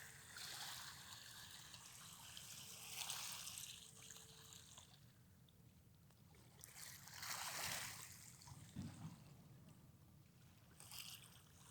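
Faint sea water sloshing and splashing in irregular surges, the clearest about three seconds in and again around seven to eight seconds.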